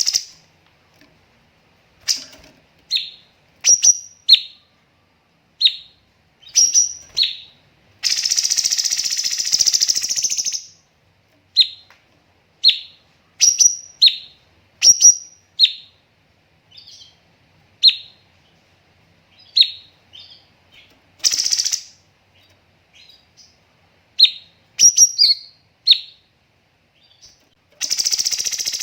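Cucak cungkok singing: a string of short, sharp chirps with pauses between them. About eight seconds in comes a loud harsh burst lasting over two seconds, and shorter harsh bursts come near the middle and near the end.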